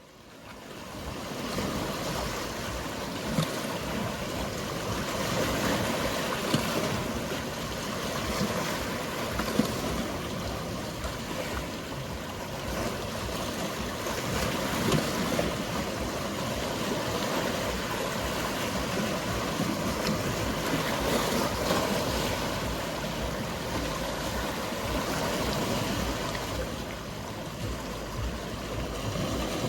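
Sea waves washing and lapping against the shore in a steady wash of water noise, fading in over the first second or so.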